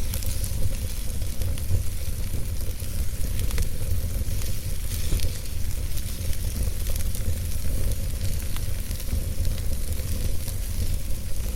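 Wood fire burning in a fireplace: a steady low rumble and hiss of the flames, with frequent small crackles and pops from the burning logs.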